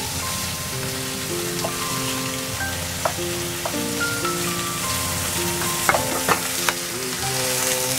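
Thick deep-fried tofu (atsuage) sizzling in oil in a frying pan while it is stirred with a wooden spatula. Several sharp knocks of spatula and pan come in the second half.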